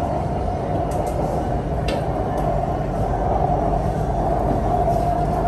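Steady running noise heard from inside a BTS Skytrain car on the move: a low rumble under an even hum, with two faint clicks about one and two seconds in.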